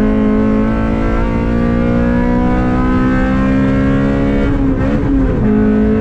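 Honda Civic Si's K20 four-cylinder engine accelerating, heard from inside the cabin. Its pitch climbs steadily for about four and a half seconds, then breaks off briefly and comes back lower as the car is shifted up a gear.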